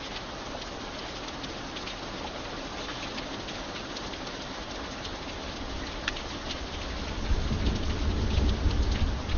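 Steady rain falling, with sharp ticks of single drops striking a surface. About seven seconds in, a deep low rumble comes in and grows louder.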